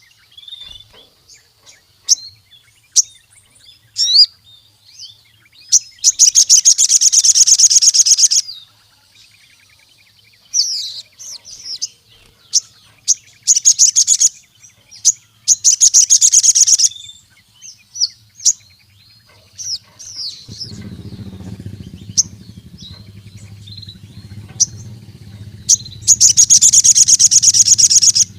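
Sogon (crimson sunbird) singing: scattered sharp chirps and short whistled notes, broken by three loud, rapid trills of a couple of seconds each. A faint low hum comes in about two-thirds of the way through.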